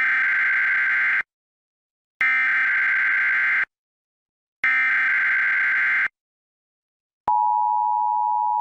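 Emergency Alert System-style alert tones: three screechy digital data bursts of about a second and a half each, a second apart, then a steady two-tone attention signal starting about seven seconds in.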